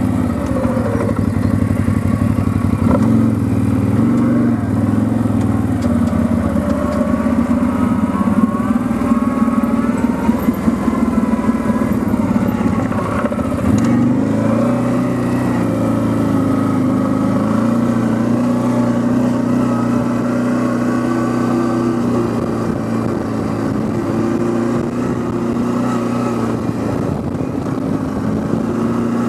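Quad bike (ATV) engine running under way, its note rising and falling with the throttle.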